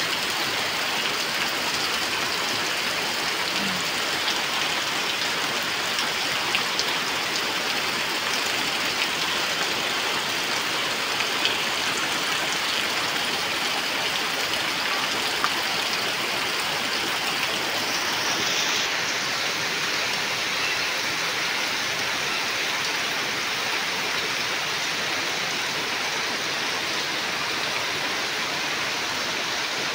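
Heavy rain pouring down steadily, a dense even hiss of a tropical downpour on ground, leaves and standing water, with a few faint taps of drops here and there.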